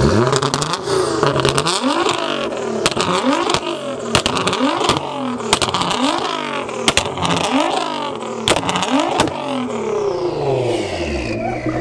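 A performance car's engine free-revved over and over in quick blips, each rev rising and falling in pitch, with sharp cracks from the exhaust between them. Near the end it settles back to a steady idle.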